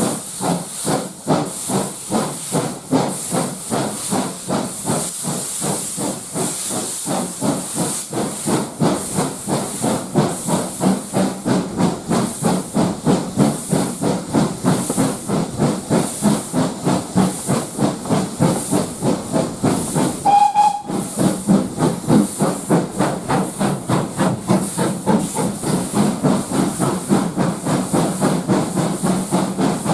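Steam locomotive working, its exhaust beating in a fast, even rhythm of hissing puffs, with a brief steam whistle toot about two-thirds of the way through.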